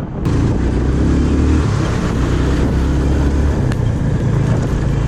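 Motorcycle engine running steadily while being ridden, with road noise.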